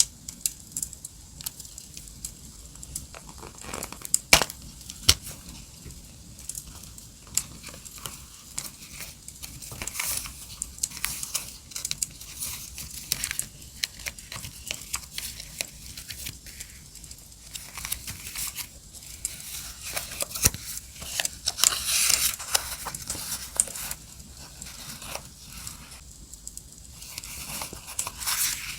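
Paper and sticker sheets being handled for journal decorating: crinkling, rustling and tearing, with scattered sharp clicks and a longer rustle about three-quarters of the way through. Underneath, a crackling campfire runs as a background bed.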